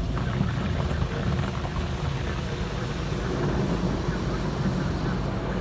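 Car running, heard as a steady low rumble from inside the cabin.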